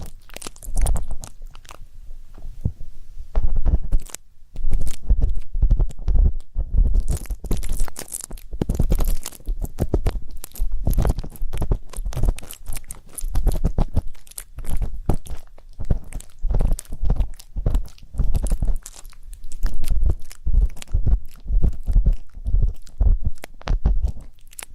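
Ear pick scraping and rubbing in an ear-cleaning ASMR recording, a close, busy run of scratches and clicks with low thumps, easing off for a moment a few seconds in.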